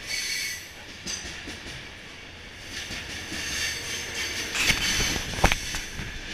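Freight train of hopper wagons rolling past close by: steady rumble of wheels on rail, a high-pitched wheel squeal at the start, and a quick run of loud metallic clanks about five seconds in.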